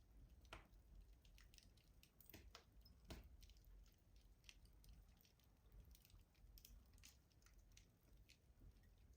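Wood fire crackling in a rustic stove: quiet, irregular small crackles and ticks, with a few sharper pops in the first three seconds.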